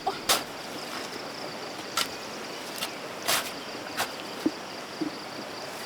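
Insects chirring steadily in a high, even band. Over it come about six short, sharp knocks at irregular intervals, the loudest a moment after the start.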